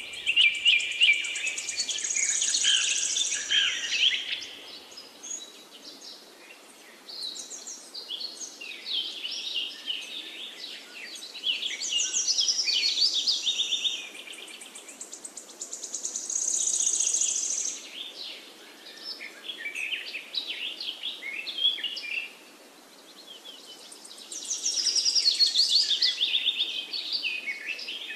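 Birds singing: phrases of rapid, high-pitched chirps and trills a second or a few seconds long, coming every few seconds, over a faint steady hiss.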